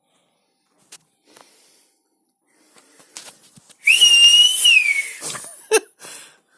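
A person whistling one breathy, high note of about a second and a half, which rises into a steady pitch and slides down at the end. A few faint knocks and rustles come before and after it.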